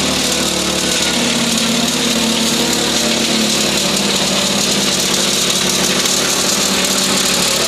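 Engine-driven grain suction conveyor running steadily: an even engine hum under a loud, steady rushing hiss.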